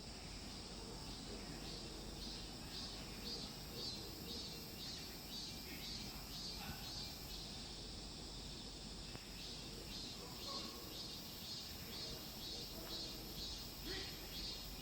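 Insects chirping in a steady rhythm, about two high pulses a second, over faint outdoor background noise.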